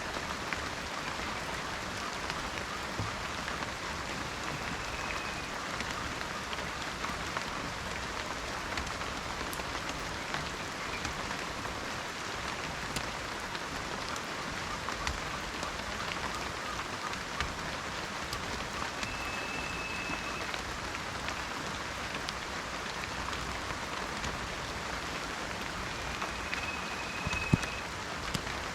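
Steady rain falling in a forest, with scattered individual drops ticking and one louder drop or knock near the end. A thin high note sounds briefly three times over the rain.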